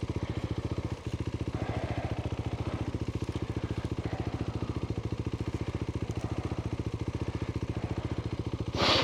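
Adventure motorcycle engine idling steadily with an even, rapid pulse. A short burst of noise comes near the end.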